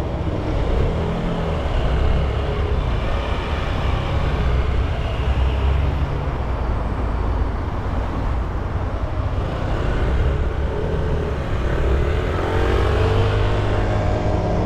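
Motorcycle being ridden, its engine running under a rush of wind noise; near the end the engine note rises as the bike speeds up.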